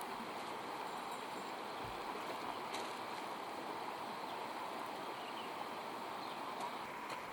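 Steady rushing of running water, like a stream, with a few faint light taps.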